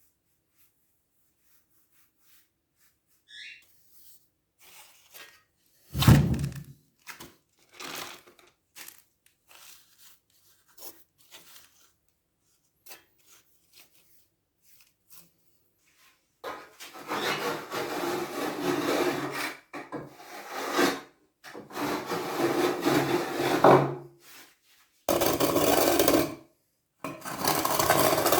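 Hand-tool work on building material: scattered light knocks and one heavy thump, then long stretches of rough rubbing or scraping strokes with short pauses between them.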